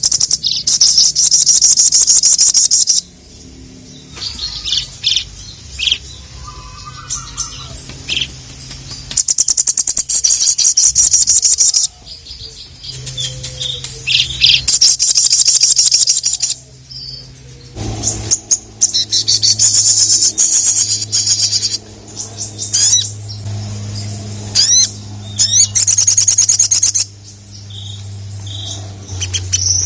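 Sogok ontong (sogon) songbird singing in full voice: long, very fast, high-pitched trills a few seconds each, broken by short pauses and a few single chirps. A steady low hum runs underneath.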